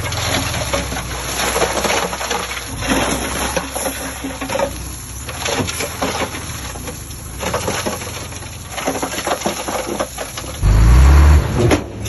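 Earthmoving machinery at work: an uneven clatter of knocks and scraping, with a loud low rumble for about a second near the end.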